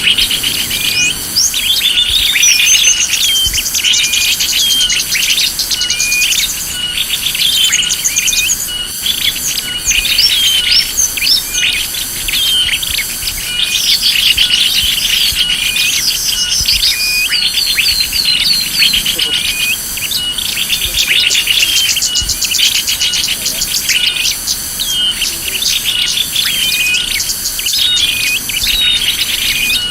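Bird-lure recording: many small birds chirping and calling rapidly and continuously, over a steady, regularly pulsing insect-like buzz.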